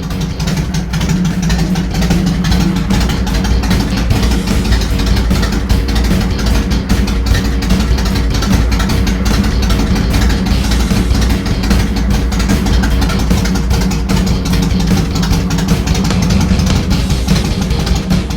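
Yamaha Road Star's V-twin motorcycle engine running steadily.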